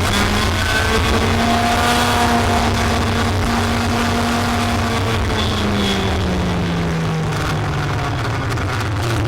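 Racing vehicle's motor running at speed, its pitch steady and then falling away about six seconds in, picking up again near the end.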